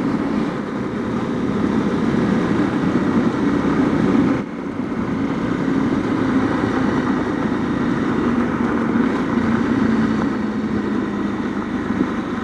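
Honda CRF250L's single-cylinder engine running under way, the sound growing louder over the first few seconds. It dips sharply for a moment about four and a half seconds in, then runs steady.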